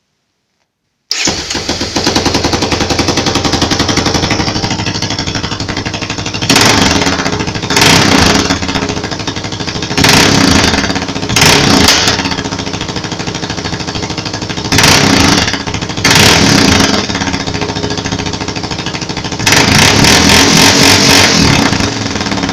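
Honda engine breathing through a Hydrotech aftermarket exhaust. It comes in suddenly about a second in and idles with a fast, even pulse. It is then revved in seven short blips, the last held for a couple of seconds.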